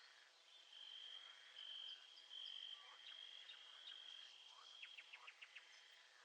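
Faint nature-sound ambience: a high, steady trilling chorus that breaks off and resumes in stretches, with a quick run of about six short chirps near the end.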